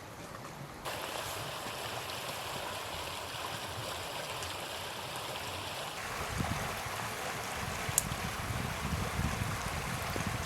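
River water rushing steadily. The sound jumps louder about a second in, and from about six seconds a low rumble joins it, with a single sharp click near eight seconds.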